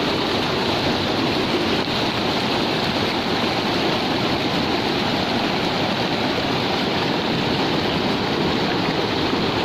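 The Beas River's mountain water rushing steadily, an even, unbroken roar of flowing water.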